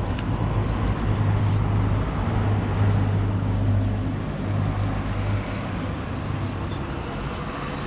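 Road traffic noise: a steady low motor-vehicle hum over road noise, strongest for the first few seconds, with a short click right at the start.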